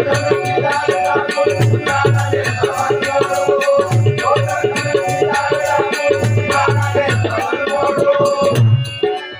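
Instrumental passage of a traditional Marathi/Konkani bhajan: a held harmonium melody, recurring deep drum strokes and a fast, steady jingle of small hand cymbals. The music drops away about nine seconds in.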